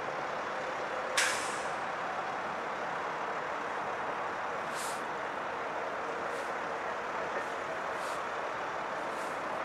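Metro-North electric commuter train approaching with a steady running noise, broken by a sharp hiss of air about a second in and fainter, shorter hisses later, typical of its air brakes.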